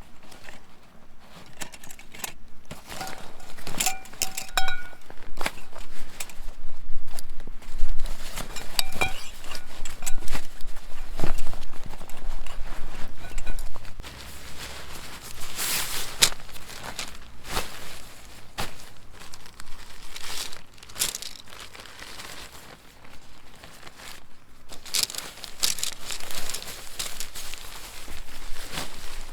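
Rustling and crinkling handling noises with irregular clicks and knocks, and footsteps, like gear being handled; a brief squeak rings out about four seconds in.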